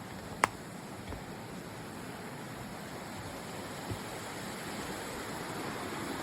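Steady rush of a mountain creek, growing a little louder near the end. A single sharp click about half a second in.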